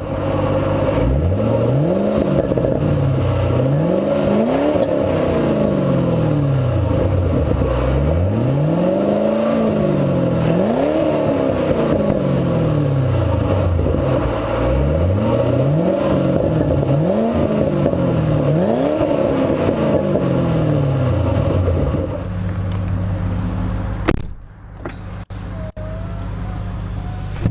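2008 Ford Mustang GT California Special's 4.6-litre V8 being revved from idle, about six blips in pairs, each rising and falling back. The revving stops near the end and the engine settles to a steady idle, which then turns quieter.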